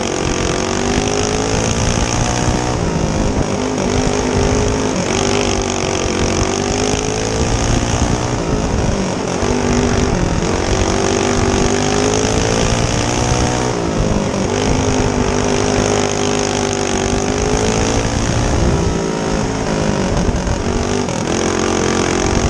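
Several small single-cylinder go-kart engines racing on a dirt oval. Their pitch drops and climbs again about every five seconds as they ease off for the turns and accelerate down the straights.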